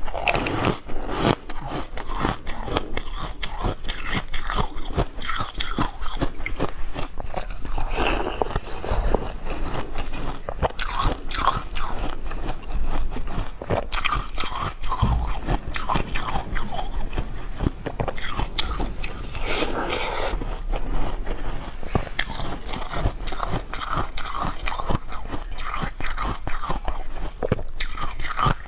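A person biting into and chewing shaved ice at close range, with dense, irregular crunching and crackling throughout.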